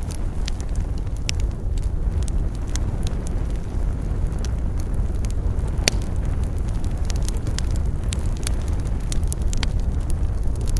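Wood campfire burning: a steady low rush with frequent sharp crackles and pops of the burning wood, one louder pop about six seconds in.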